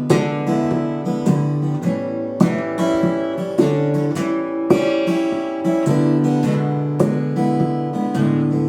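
Acoustic guitar played without singing: strummed chords struck about once a second, the chord changing every few strokes.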